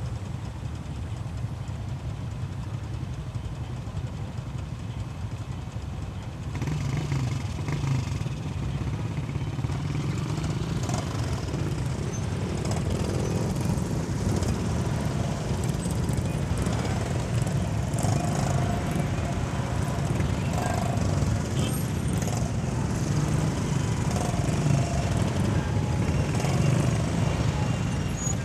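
Motorcycle riding on a highway: a steady mix of engine and road and wind noise, which gets louder about six and a half seconds in.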